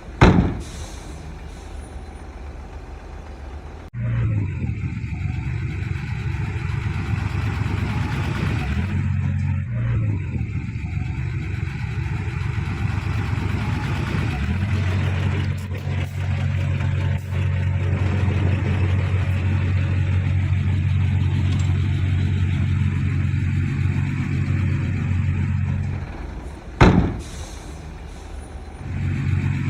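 Heavy diesel engine of earthmoving machinery running steadily under load, with a strong low steady drone. Two sudden loud knocks, one right at the start and one near the end, each followed by a few quieter seconds.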